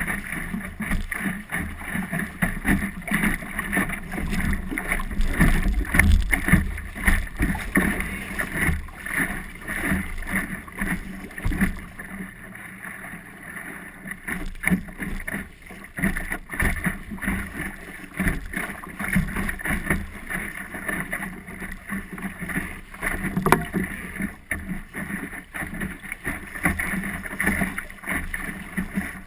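A small boat out on the water: irregular splashing and rushing noise of water against the hull, with wind buffeting the microphone.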